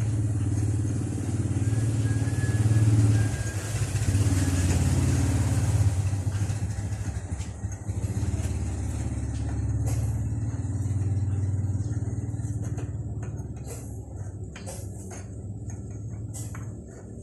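Motorcycle engine running steadily, louder in the first few seconds and easing off toward the end, with a few sharp clicks near the end.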